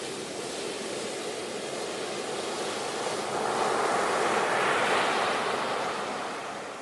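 Ocean surf: a steady wash of waves that swells to a peak about four to five seconds in as a wave breaks, then fades as it recedes.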